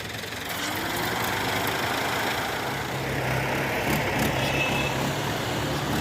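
Heavy diesel machinery running, with the engine note rising briefly about a second in and then holding steady.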